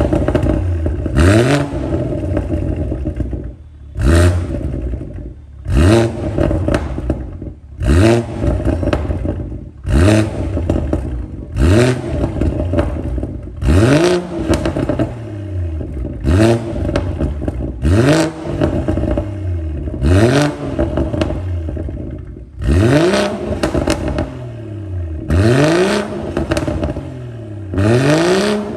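BMW 340i's turbocharged B58 inline-six, with a race downpipe and straight-piped muffler delete, revved in short blips about every two seconds. Each blip rises quickly in pitch, then falls back to idle.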